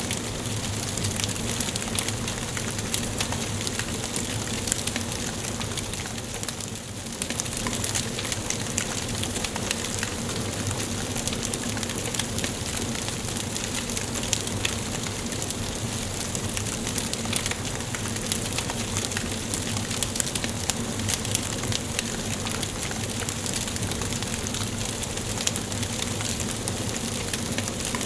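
Wood fire burning in a fireplace: a steady hiss with frequent sharp crackles and pops.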